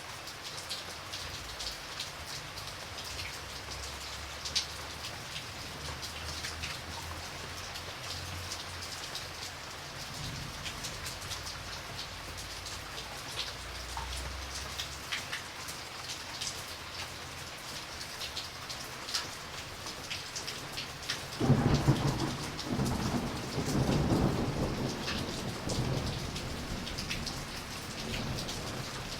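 Steady rain falling, with single drops striking close by. About two-thirds of the way through, a thunderclap breaks in suddenly and rumbles on for several seconds.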